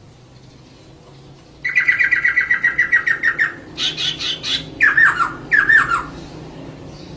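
Female poksay (laughingthrush) calling: about a second and a half in, a fast run of repeated chirps, then a short burst of higher notes and two falling notes, stopping about six seconds in.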